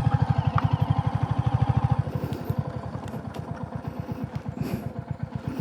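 Royal Enfield Hunter 350's single-cylinder 349 cc engine thumping at low revs, about ten beats a second, getting quieter after about two seconds.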